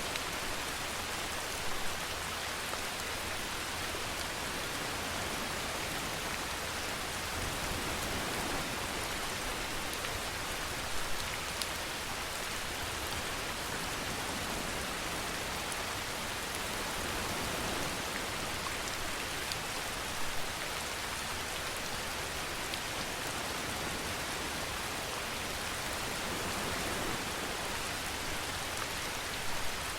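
Steady rain falling, an even hiss of drops on a surface, with a few slightly louder drop taps now and then.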